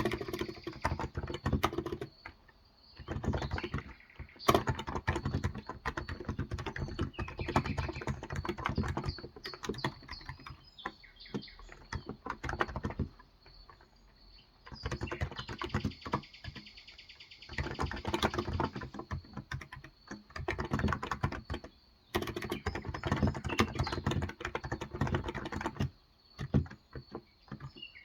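Typing on a Cox Endeavour tenkeyless keyboard with electrostatic-capacitive (Topre-style) 35 g switches: fast runs of soft, muted keystrokes in bursts of a few seconds, broken by short pauses.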